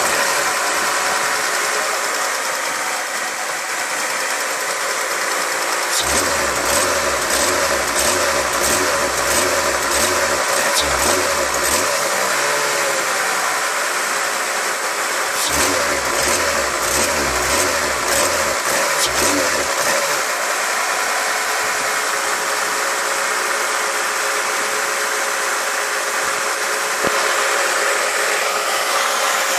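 Mercedes-Benz C36 AMG's 3.6-litre M104 straight-six idling steadily at a high idle speed, over 1100 rpm. This is the fault the owner is chasing after rewiring the throttle body and fitting a new overvoltage relay.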